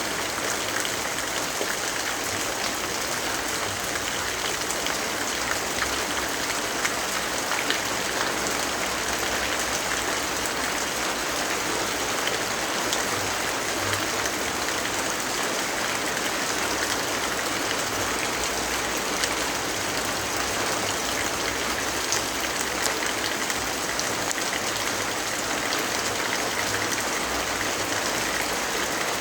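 Steady rainfall: an even hiss of rain with scattered small ticks of drops.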